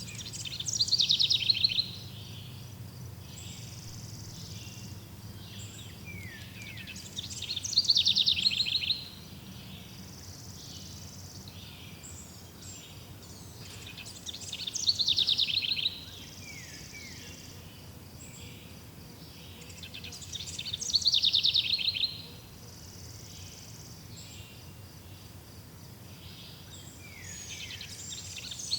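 Forest songbird singing the same short, fast descending trill over and over, five times about every six to seven seconds, with softer falling chirps from another bird between the songs over a faint steady background.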